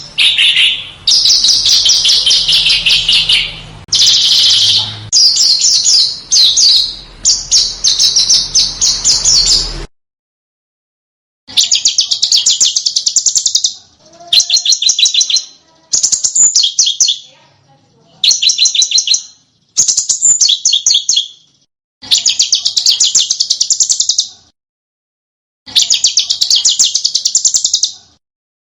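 Recorded song of a small bird: rapid, sharp, high-pitched trilled phrases, each made of many fast notes. Nearly continuous at first; after about ten seconds comes a brief cut to silence, then phrases of a second or two repeat with short gaps.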